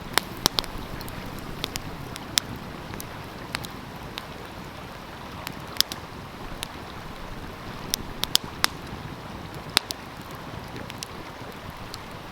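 Wood fire crackling, with sharp pops at irregular intervals, over the steady rush of a stream.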